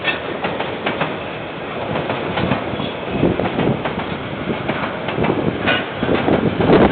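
KiwiRail train passing, its wheels clicking steadily over the rails, heard through a security camera's microphone. It gets louder near the end.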